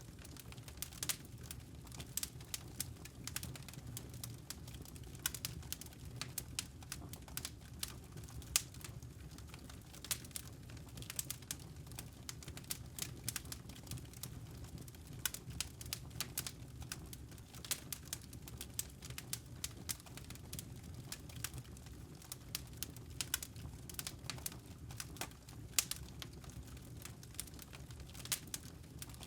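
Campfire of burning wood logs crackling, with irregular sharp pops over a steady low rumble of the flames.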